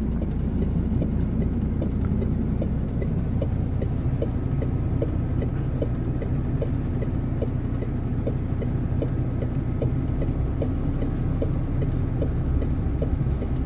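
A heavy truck's diesel engine pulling under load at low speed, heard from inside the cab as a steady low rumble. A light, regular ticking runs over it, about two to three ticks a second.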